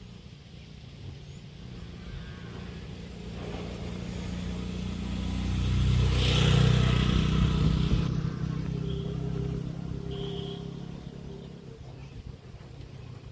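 A motor vehicle drives past, its engine growing louder, peaking about halfway through, then fading away.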